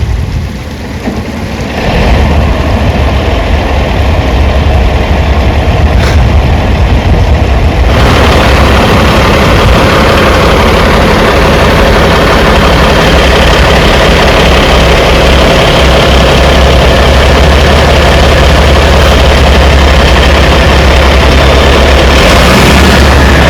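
Heavy machinery engine running steadily with a deep rumble, getting louder about two seconds in and fuller again about eight seconds in.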